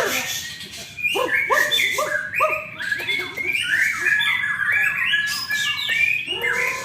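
White-rumped shama (murai batu) singing a fast, varied song of whistled phrases, many notes sweeping down in pitch.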